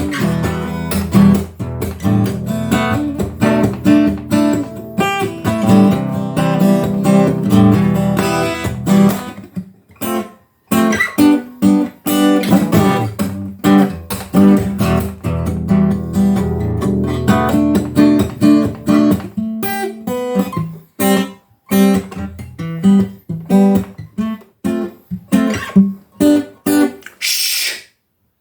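Acoustic guitar music, strummed with plucked notes in a steady rhythm, breaking off briefly about ten seconds in. A short hiss comes near the end.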